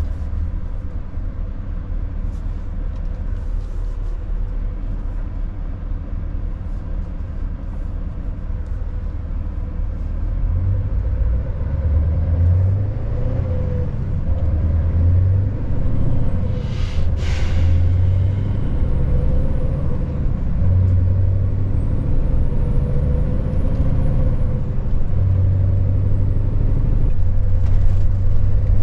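Scania S580's V8 diesel engine running under load, a steady low drone that grows louder from about ten seconds in. Partway through there is one short hiss of air.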